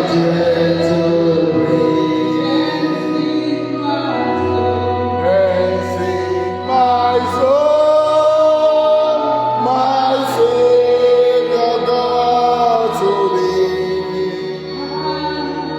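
Church worship music: voices singing long held notes over a steady low accompaniment.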